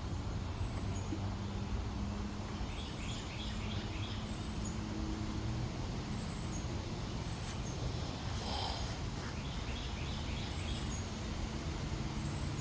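Honeybees buzzing around an opened hive as a low hum that comes and goes over a steady outdoor background noise. A small bird chirps short high notes about once a second.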